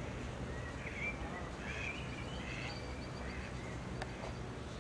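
Small birds chirping in short rising and falling calls over a steady low outdoor rumble, with a quick faint twittering run in the middle and a single sharp click about four seconds in.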